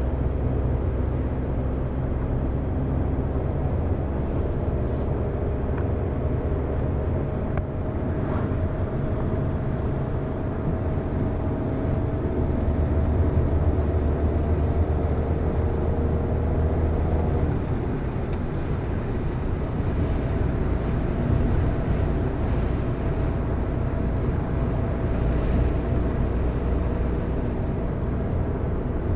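Car driving: steady engine and tyre road noise. The engine note climbs slowly, then drops suddenly about two-thirds of the way through.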